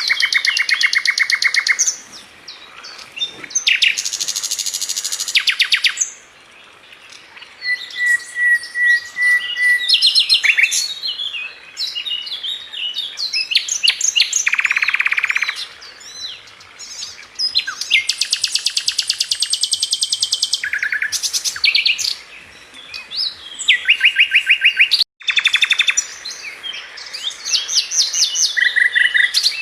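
A sikatan London flycatcher singing a long, varied song: fast rattling trills of rapidly repeated notes, alternating with sharp chirps, and a short, steady whistle about a third of the way in.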